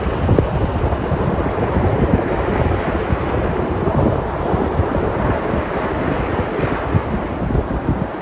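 Sea surf breaking and washing in steadily, with wind buffeting the microphone.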